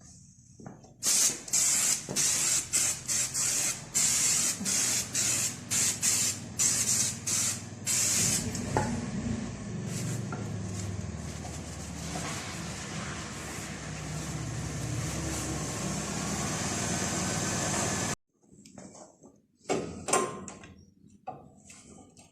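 Pressurised spray hissing: about a dozen short bursts over seven seconds, then one continuous blast of about ten seconds with a low hum under it, cutting off suddenly.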